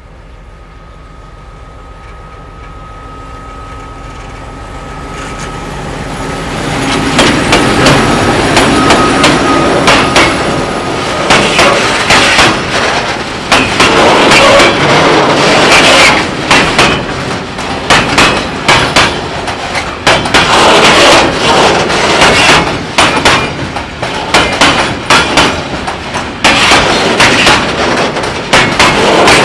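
Freight train hauled by an M62 diesel locomotive approaching and passing close by, its wheels clattering over the rail joints. The sound swells for several seconds, then gives way to a dense, irregular run of knocks and clatters.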